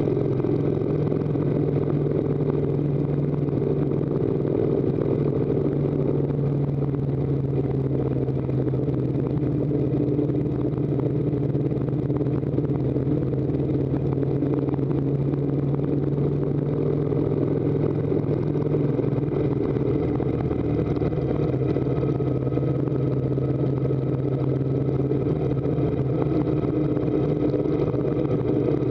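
Harley-Davidson V-twin motorcycle engine running steadily under load while climbing a mountain road, with road and wind noise. The engine note drops slightly about two-thirds of the way through, as the throttle changes for the curves.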